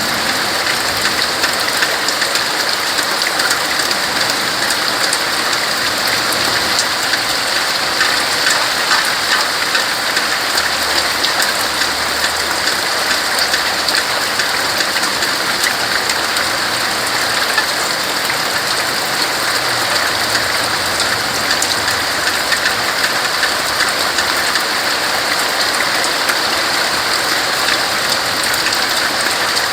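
Steady rain falling on tree leaves: an even hiss of many drops, with no change in strength.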